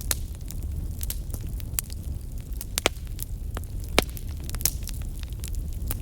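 Wood fire burning in a fireplace: a steady low rumble of flames with scattered crackles and pops, the sharpest pops coming near the middle.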